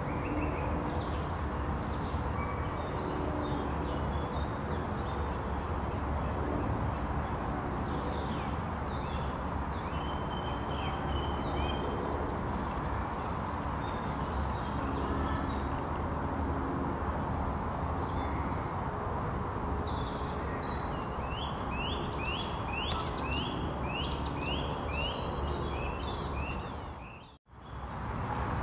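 Small birds calling and singing over a steady low background rumble, with a quick run of about ten repeated sweeping notes from one bird near the end. The sound cuts out briefly just before the end.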